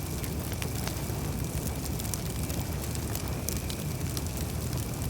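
Campfire burning: a steady low rumble of the flames with scattered sharp crackles and pops from the wood.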